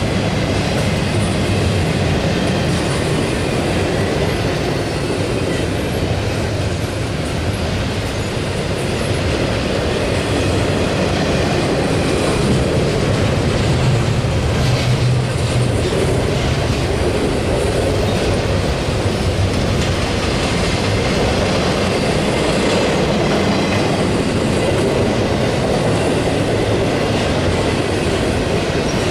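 Double-stack container train rolling past: steady noise of steel wheels on rail with clickety-clack over the rail joints.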